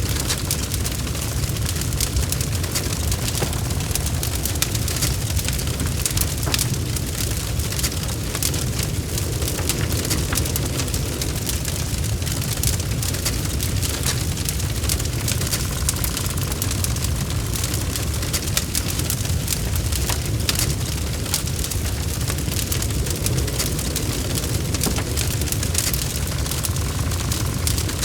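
Log fire burning in a fireplace: a steady low rumble with frequent sharp crackles and pops from the burning wood.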